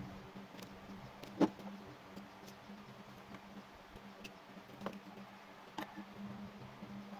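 A few light clicks and knocks, the loudest about one and a half seconds in, over a faint steady hum.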